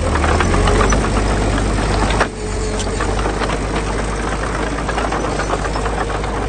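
Diesel engine of heavy earthmoving machinery running, with a steady low drone and rapid clattering knocks over it. There is a sharp knock about two seconds in.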